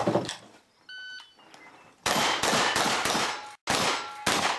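Shot timer beeps once, then about a second later a fast string of shotgun blasts begins, with steel targets clanging and ringing as they are hit.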